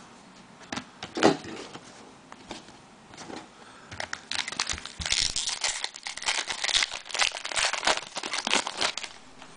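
A foil trading-card pack wrapper crinkling as it is torn open, densest over the second half, after a few light clicks and taps of cards being handled.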